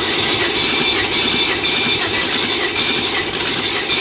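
BMW X6 engine being cranked over on its starter motor without firing, spinning steadily during a compression test on cylinder six. That cylinder reads low, about 150, which the mechanic takes as a sign it is weak and leaking.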